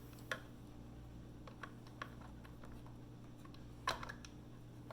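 A few scattered small plastic clicks and taps as the tabs of a dishwasher's plastic control-board cover are pressed and pried with a pick, the loudest click a little before the end.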